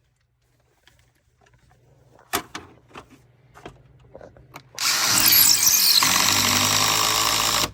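A few light knocks and clicks, then a cordless power tool runs loudly and steadily for about three seconds, driving or drilling a hurricane-protection anchor, and cuts off near the end.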